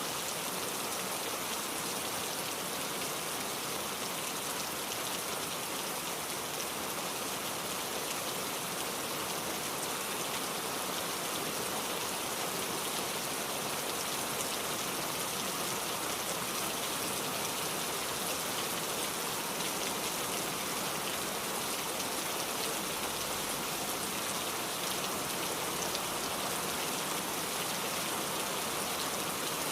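Steady rain falling, with fine scattered drops ticking on a surface.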